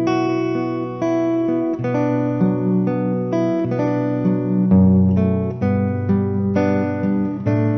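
Acoustic guitar playing an instrumental passage, the chords changing about once a second, with no singing.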